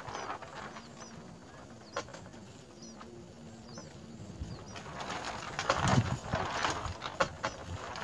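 Short, high chirps of small birds, scattered through. Just past the middle comes a louder rustling noise lasting about two seconds.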